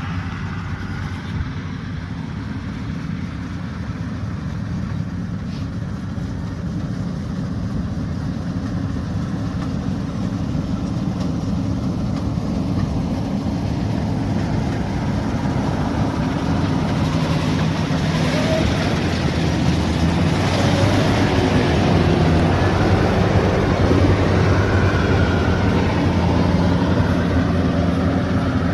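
Diesel engine of a rice combine harvester running steadily under work, growing gradually louder over most of the stretch.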